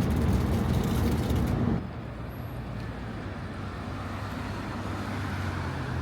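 Bus engine and road noise, a steady low drone. Just under two seconds in it drops suddenly to a quieter steady rumble of traffic.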